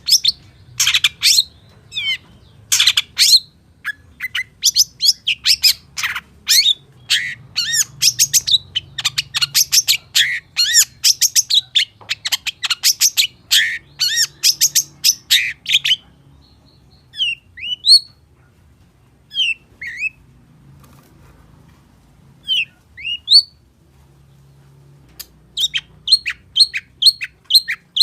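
Long-tailed shrike (pentet) singing a loud, rapid stream of varied chattering notes, the imitative 'full isian' song. About halfway through it slows to a few separate sliding whistles, then breaks back into fast chatter near the end.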